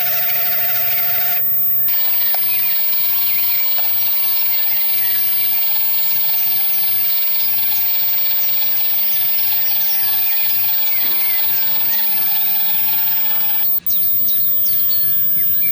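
Small electric motor of a toy fire truck whining steadily, with birds chirping near the end.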